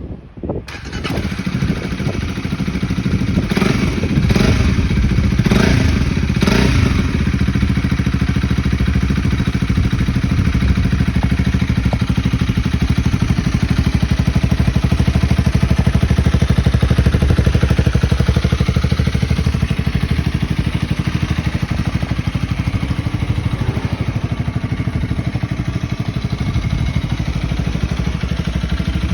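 Honda Rebel 250's single-cylinder engine, breathing through an aftermarket muffler, starting up about half a second in. It is blipped four times in quick succession a few seconds later, then settles into a steady idle.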